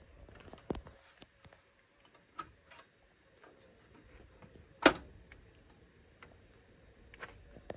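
A few scattered sharp clicks and knocks of objects being handled, the loudest about five seconds in, against a quiet background.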